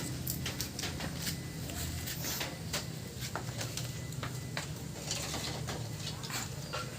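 Irregular light clicks and clinks of metal tools and parts being handled, over a steady low hum.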